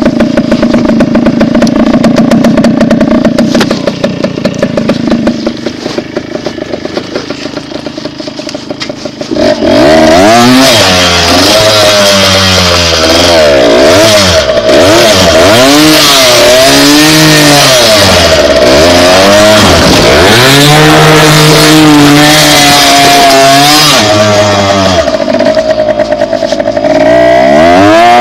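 Dirt bike engine running steadily at first and easing off. From about a third of the way in it is loud, its pitch rising and falling again and again as the throttle is worked.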